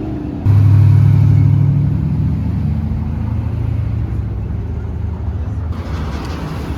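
Motor vehicle engine rumbling close by, starting abruptly about half a second in, loudest for the first two seconds, then easing to a steady lower rumble.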